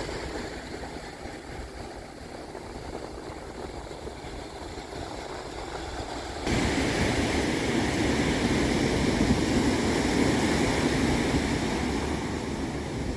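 Ocean surf washing onto a beach, with wind: a steady rush that turns suddenly louder about halfway through.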